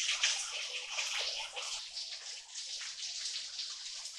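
Water from a small waterfall splashing and trickling onto rock, a steady hiss with no pauses.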